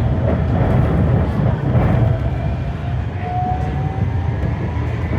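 GTZO tram running, heard from on board: a steady low rumble of wheels on rails, with a brief faint squeal about three seconds in.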